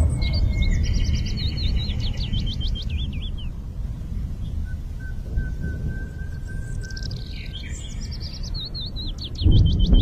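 Bird song: a phrase of quick, sharp whistled notes ending in a wavering trill, sung twice, with a long steady whistle in between. A low rumble runs underneath.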